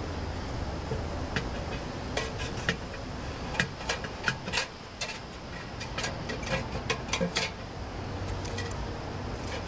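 A run of sharp, irregular clicks and clinks over a steady low rumble.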